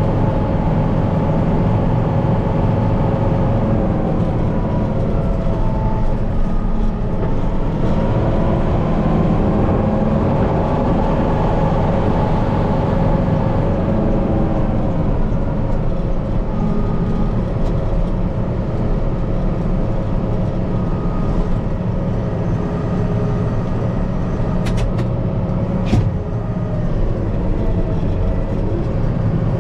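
Kubota M5-091 tractor's four-cylinder diesel engine running, heard from inside the cab, its pitch rising and falling as the revs change. A single sharp knock near the end.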